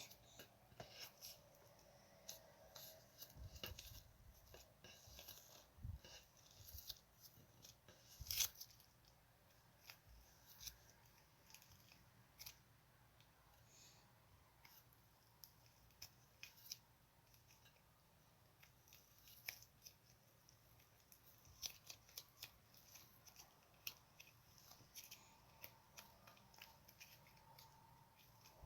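Coloured slime being squished, stretched and mixed by hand, giving faint, irregular sticky clicks and crackles, with one sharper snap about eight seconds in.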